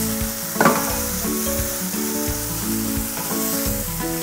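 Chicken mince sizzling in a hot non-stick frying pan on a gas burner as it is stirred with a spatula, with a steady frying hiss and a few light scrapes. Background music plays underneath.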